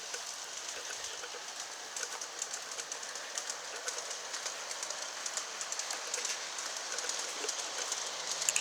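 G-scale model trains rolling along the track: a steady hiss with light, irregular clicking of the wheels on the rails. A faint steady hum joins near the end.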